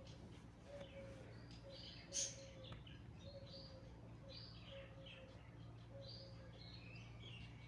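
Faint chorus of small birds chirping and twittering in quick short notes, with a lower note repeating about once a second under them. A single sharp click about two seconds in is the loudest moment.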